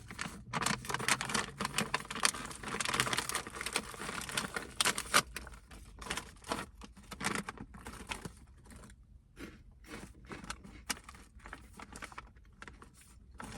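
Plastic snack bag crinkling as it is opened and handled: a dense run of crackling for about the first half, then sparser rustles and crackles.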